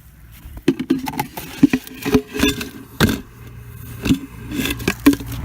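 Irregular knocks and scrapes, about ten over a few seconds, from handling a container of bird seed and tipping the seed out into a ceramic dish.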